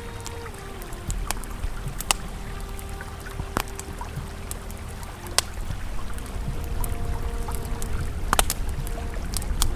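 Campfire crackling with a few louder sharp pops, over the steady low rush of a flowing river. A soft, sustained ambient drone of held tones sits underneath.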